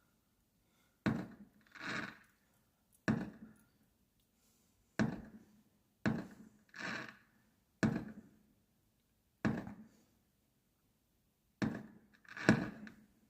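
Fireworks going off: a series of about seven sharp bangs at uneven intervals of one to two seconds, several followed within a second by a longer, softer burst, the loudest near the end.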